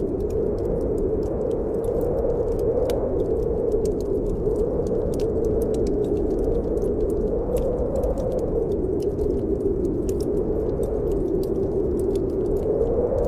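Snowstorm wind blowing steadily, swelling and easing every few seconds, mixed with the frequent sharp crackles and pops of a wood fire burning in a fireplace.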